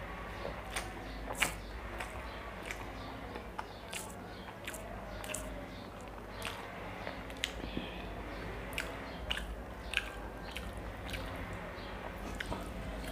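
Close-miked mouth sounds of a man chewing a mouthful of food: irregular wet smacks and clicks.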